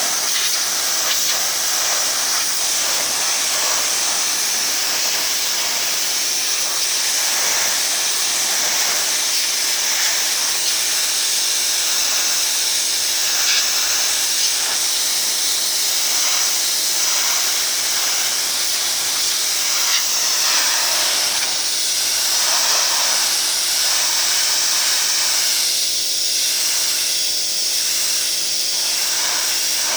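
A 2200 psi electric pressure washer running, its water jet hissing steadily over a low, even hum.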